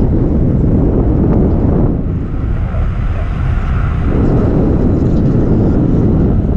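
Electric skateboard rolling over a rough trail, a loud, steady rumbling ride noise that eases off for a couple of seconds about two seconds in, then returns.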